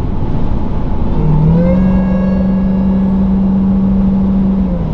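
Dodge Durango SRT Hellcat's supercharged 6.2-litre V8 pulling under acceleration on the road, through its stock mufflers. The engine note rises about a second in, holds steady, then eases back near the end, over a constant road rumble.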